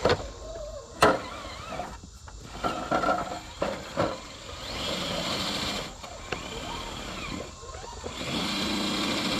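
Electric motor and gear drive of a Traxxas TRX-6 six-wheel RC crawler whining in two spells as it is driven over rocks. A few sharp knocks are heard between them.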